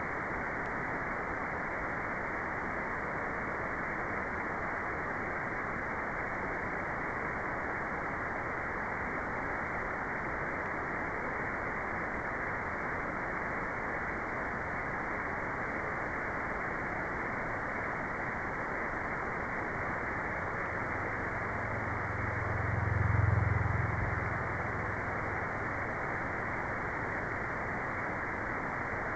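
Steady white noise, a dull hiss with the high end cut off. A low rumble swells up and fades away about three-quarters of the way through.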